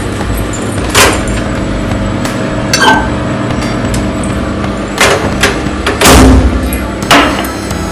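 Sharp clunks and knocks, about six spread over several seconds, over a steady hum: a microwave oven's door being opened and a mug being taken out and set down.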